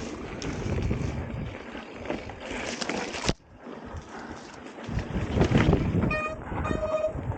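Wind buffeting the microphone and rumble from a bicycle riding a woodland trail. About six seconds in come two short, high pitched squeaks.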